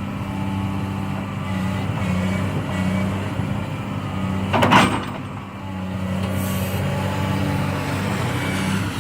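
Excavator's diesel engine running steadily during log loading, with one short, loud burst of noise about halfway through.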